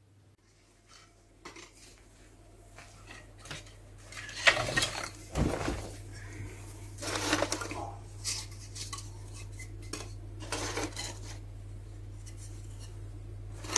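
Clinking and clattering of dishes or metal utensils being handled: a series of separate knocks and rattles a second or so apart, over a steady low hum.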